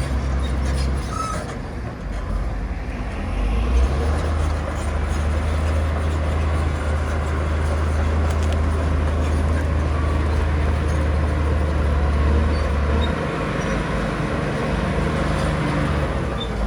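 Heavy diesel earthmoving machinery running: a steady low engine drone that grows stronger about four seconds in and eases back near the end.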